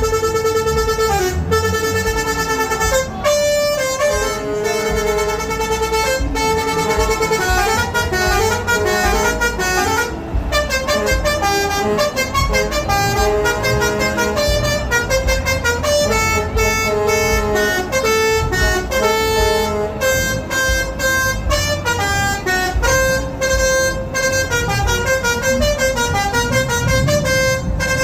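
A Renault Premium truck's set of musical horns playing a tune: a quick run of loud, steady horn notes changing pitch, over the low running of the truck.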